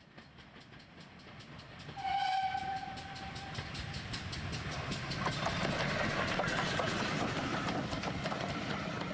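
A train with a fast, even rhythmic beat fades in and grows louder. Its whistle blows once, for about a second and a half, about two seconds in.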